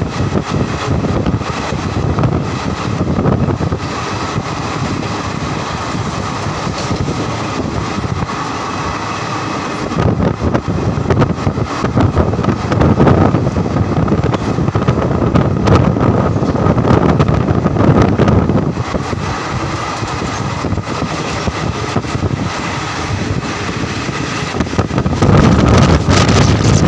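Running noise of a moving passenger train heard from the coach side: a continuous rumble of wheels on rails with wind buffeting the microphone. It grows louder near the end as an electric locomotive passes on the adjacent track.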